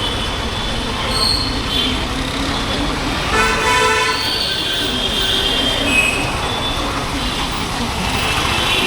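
Honda H'Ness CB350's single-cylinder engine and exhaust running steadily under way, with a vehicle horn sounding briefly about three and a half seconds in and fainter horns near the start and end.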